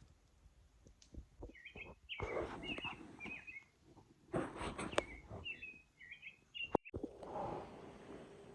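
A small bird chirping in a series of short, quick notes, mixed with bursts of rustling noise; the chirps stop abruptly at an edit near the end.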